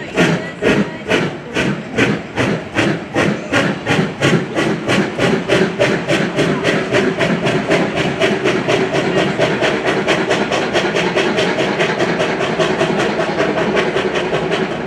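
JNR Class C57 steam locomotive's exhaust chuffing as it accelerates hard: sharp, even beats that quicken from about three to about five a second and run closer together towards the end.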